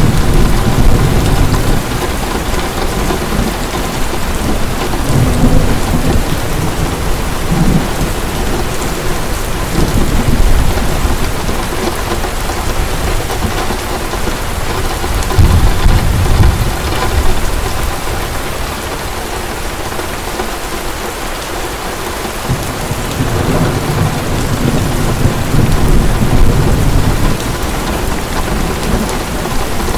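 Heavy rain falling steadily, with low thunder rumbling in long swells that come and go, loudest at the start, around the middle and again in the last third.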